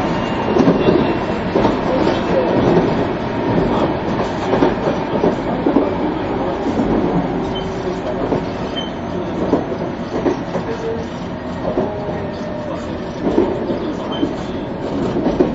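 Running noise heard inside a 373 series electric train: a steady rumble of the wheels on the track with frequent irregular knocks.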